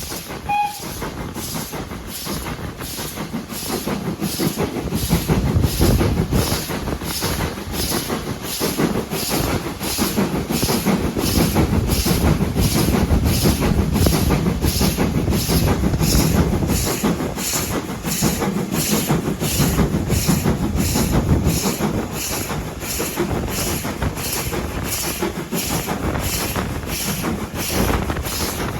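A train running on the line, its rumble building to a peak through the middle and easing off near the end, over a steady rhythmic beat of about two a second.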